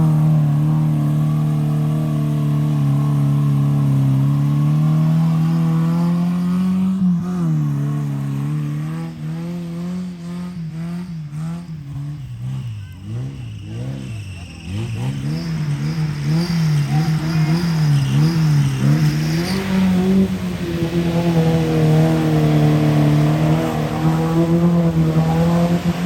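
Mud-racing truck engine on 44-inch tires running hard in a mud slough, held at high revs, then revving up and down over and over in the middle before settling back to steady high revs.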